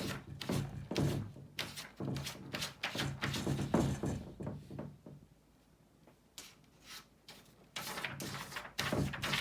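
Irregular soft taps and thunks, a few a second, from a cat working its paws on a desk, with a low hum in stretches. They die away about five seconds in and pick up again near the end.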